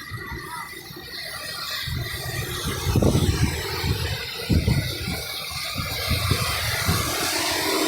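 Rain falling outdoors with the low rumble of traffic on a wet road, growing louder toward the end.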